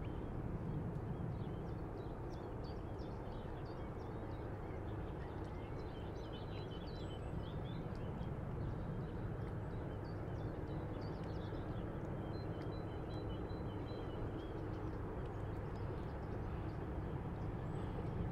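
River-bank ambience with a steady low rumble of water and light breeze. Birds call over it in many short, quick chirps, busiest in the first half.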